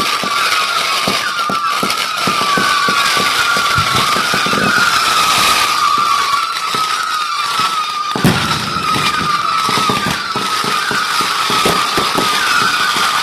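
A firework whistling steadily at one wavering pitch, with a stream of small crackling pops and a hiss behind it.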